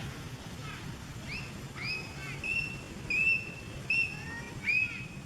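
Baby macaque giving a string of high, thin whimpering calls, about six in a row, each a short rising or arching cry, some held briefly, getting louder from about a second in.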